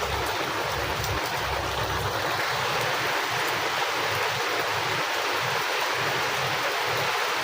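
Heavy rain pouring down steadily in a dense, even hiss, with a low rumble during the first two seconds or so.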